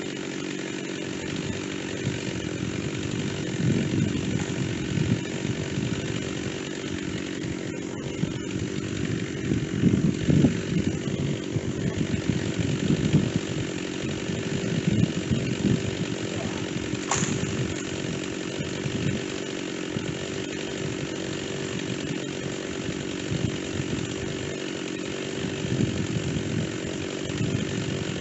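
Stihl chainsaw with a dull chain running steadily while cutting into white oak, its engine note rising and falling with the load. There is one sharp click about halfway through.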